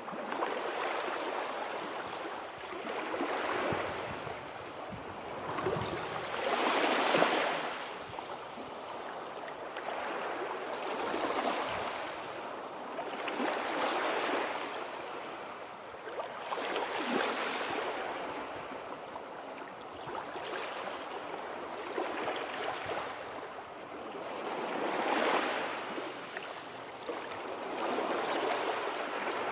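Sea waves, their wash rising and falling away every few seconds, with the strongest swell about a quarter of the way in.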